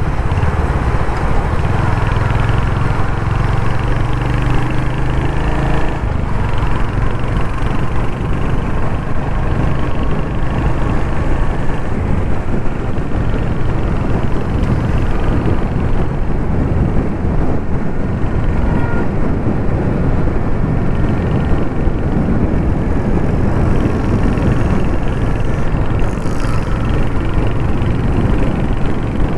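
Royal Enfield Hunter 350's single-cylinder engine running while the motorcycle is ridden, with road and wind noise. A steady engine note for about the first six seconds gives way to a rougher, noisier rumble for the rest.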